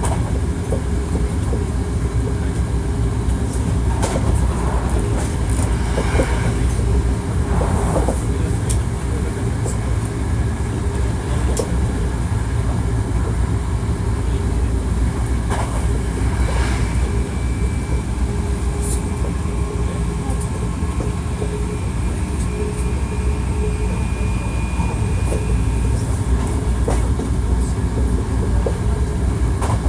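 Running noise heard inside a Hankyu 1300 series electric train car: a steady low rumble of wheels on rail, with scattered clicks and a faint steady high tone through the middle stretch.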